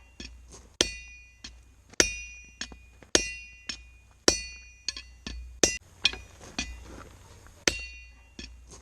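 Hammer blows on steel at an anvil, each strike ringing briefly. The heavy blows land about once a second, with lighter taps between them, and a low steady hum runs underneath.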